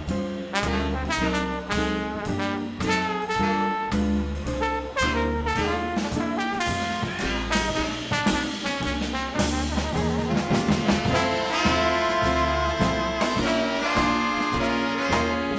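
Swing band playing live: trumpet, trombone and saxophones over upright bass and drums.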